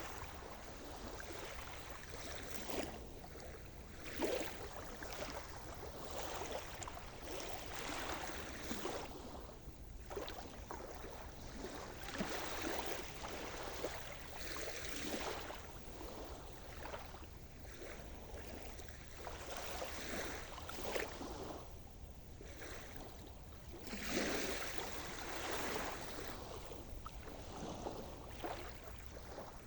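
Sea surf: small waves washing and breaking on a shore, in overlapping swells every second or two.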